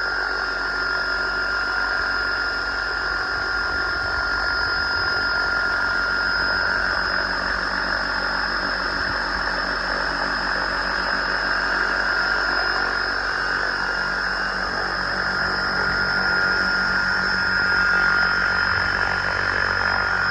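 Radio-controlled scale helicopter in flight: a steady high-pitched motor whine over the whoosh of the spinning rotor blades, swelling slightly in loudness near the end.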